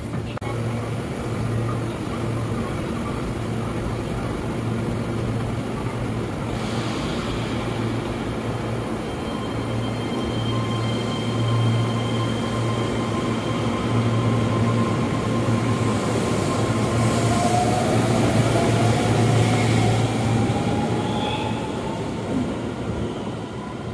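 Keihan 13000-series electric commuter train at the platform, a steady low hum under its running noise, then pulling away: a motor whine rises in pitch as it accelerates, the sound swells and then fades as it leaves.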